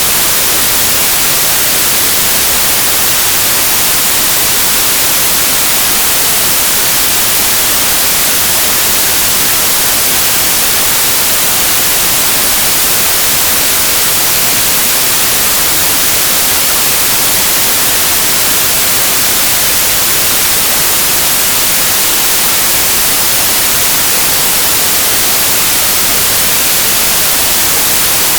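Steady synthetic white noise: an even, unbroken hiss with the most energy in the high frequencies and no changes.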